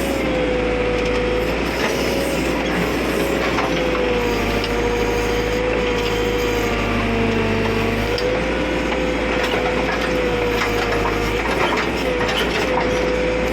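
JCB backhoe loader running while digging, with a steady whine that wavers slightly in pitch and a few light knocks.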